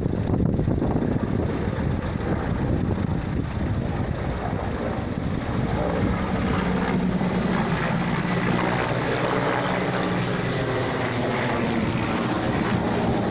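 Loud, steady engine drone over a rushing noise, with a steady low hum settling in about six seconds in.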